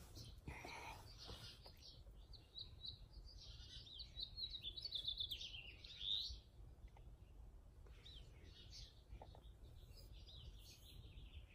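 Backyard songbirds chirping and singing, with a fast trill of high notes a few seconds in.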